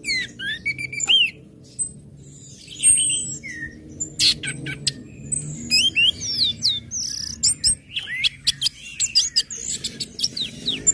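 Orange-headed thrush (anis merah) singing: a fast, varied run of chirps and whistles with quick rising and falling sweeps, delivered in phrases broken by short pauses.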